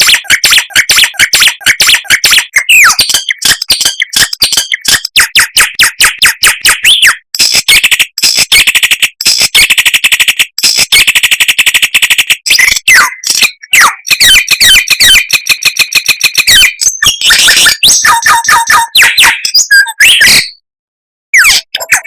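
Songbird song played as a training recording: loud, rapid chattering runs of fast repeated notes mixed with short rising whistles. It breaks off abruptly near the end and starts again with a new trilled phrase.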